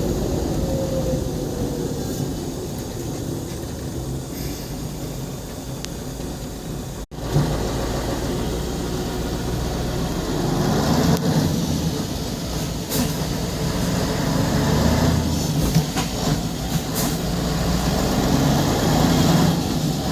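Mercedes-Benz SK 2235 truck's V8 diesel engine running, with a sudden brief gap about seven seconds in, then running louder and steadier from about ten seconds on.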